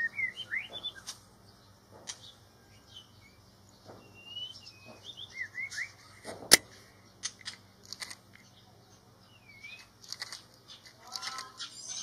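Short rising chirps and tweets of shamas at the nest, scattered and soft. A denser burst of thin calls comes near the end as a nestling gapes to beg, and there is a single sharp click about six and a half seconds in.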